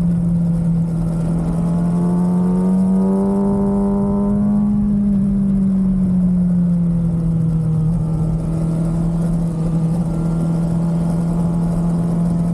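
2023 Kawasaki ZX6R's stock inline-four engine running steadily at cruising revs, climbing a little in pitch a few seconds in, then easing back to a steady note.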